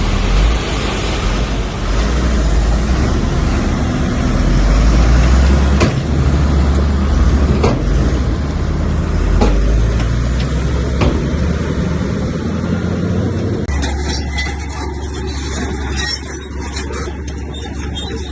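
Bulldozer's diesel engine running under load, with a sharp knock about every two seconds through the middle. Near the end the sound changes abruptly to a steadier low drone.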